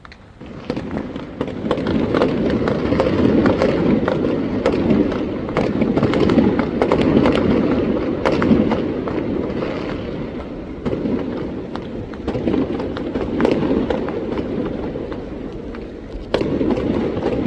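Fireworks and firecrackers going off in a dense, continuous barrage of bangs and crackles, starting about a second in, with a sudden louder burst near the end.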